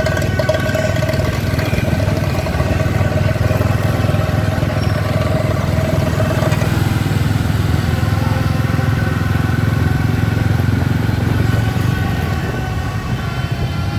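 Dense mass of motorbikes running through the street, a steady rumble of many small engines together, with a held higher tone over about the first half.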